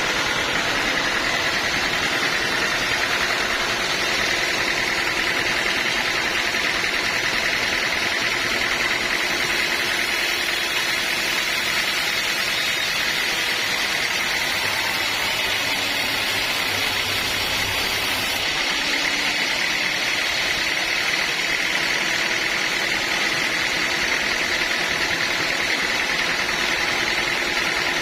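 Sawmill running steadily, its engine and saw making a continuous mechanical noise with an even, high-pitched hiss that holds at the same level throughout.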